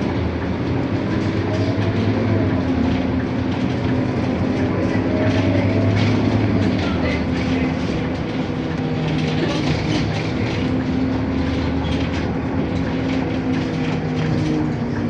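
Scania K230UB city bus running under way, its diesel engine and drivetrain humming steadily. Its pitch rises a few times in the first half as it accelerates through the gears, then settles into a steadier run. Light rattles sound over the top.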